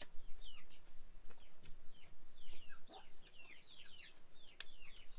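Birds chirping without pause: many short, high, falling peeps, several a second, with a few sharp clicks among them.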